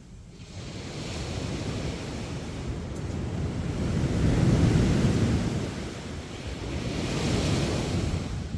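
Sea waves surging and washing in on a beach, swelling loudest about halfway through and again near the end.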